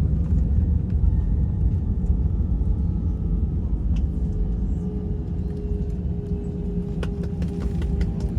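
Airbus A320 cabin noise as the airliner rolls on the ground after landing: a steady low rumble of engines and wheels. A steady hum joins in about halfway through, and a few light clicks come near the end.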